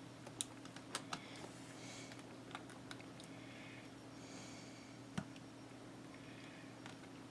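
A few faint, sharp little clicks and soft rustles of small paper-craft pieces being handled and pressed down while hot glue sets, over a steady low hum.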